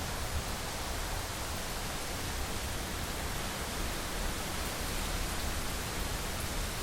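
Heavy rain falling against a window: a steady, even hiss with a low rumble underneath.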